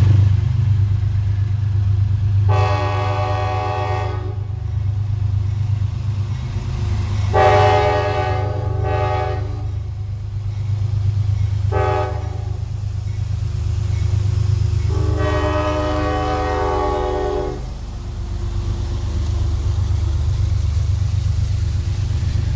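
GE P32AC-DM diesel locomotive sounding its air horn in four blasts, long, long, short, long, the standard warning pattern, over the steady low rumble of its diesel engine.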